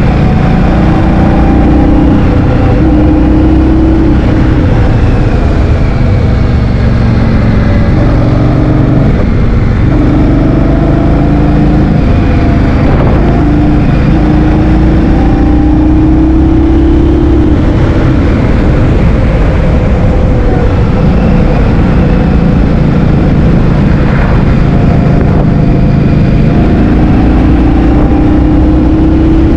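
Motor scooter engine running on the move, its pitch rising and falling with speed, under heavy wind rumble on the microphone.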